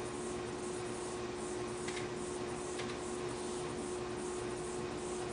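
Steady background hiss with a constant low hum, and two faint, short high-pitched sounds about two seconds and three seconds in.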